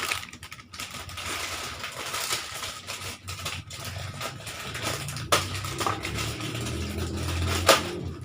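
Plastic snack packaging crinkling and rustling as it is handled and packed, with a few sharp clicks or taps, the loudest near the end.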